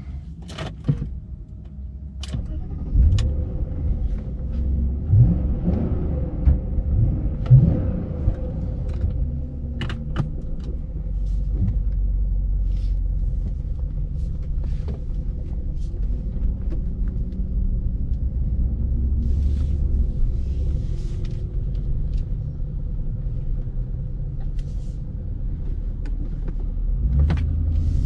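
BMW E39 540i's 4.4-litre V8 running at low revs, a deep steady rumble. A few sharp clicks come in the first ten seconds.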